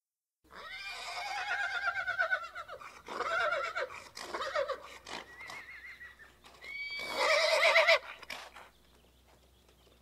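A horse whinnying: a series of quavering neighs starting about half a second in, the loudest one around seven seconds in, then dying away.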